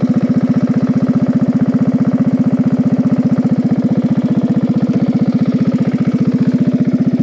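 Riding lawn mower engine running steadily with an even, unchanging beat. The drive belt has just blown, so the engine is running without driving the wheels.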